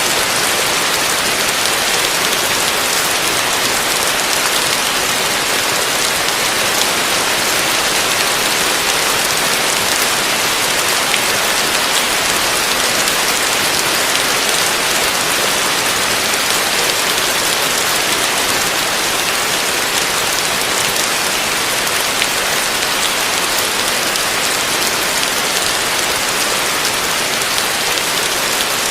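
Heavy rain falling steadily: a dense, even hiss dotted with the ticks of single drops.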